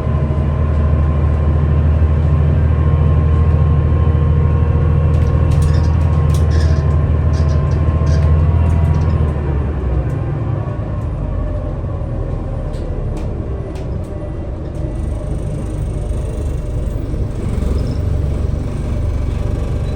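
Scania L94UB city bus's engine running under load with a deep drone, easing off about halfway through, with light rattles.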